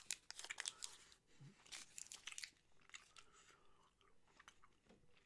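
Faint mouth sounds of a person chewing a soft, chewy Hi-Chew candy: scattered wet clicks and smacks, busiest in the first second and again around two seconds in.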